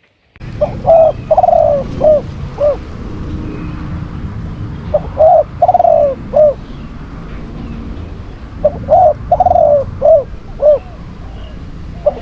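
Spotted dove cooing: three phrases of four or five notes, each with one drawn-out note among short ones, about every three and a half seconds, over a steady low rumble.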